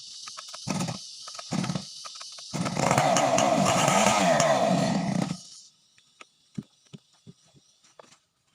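Two-stroke chainsaw engine idling, blipped twice, then held at full throttle for nearly three seconds before it stops suddenly. Faint clicks and taps follow.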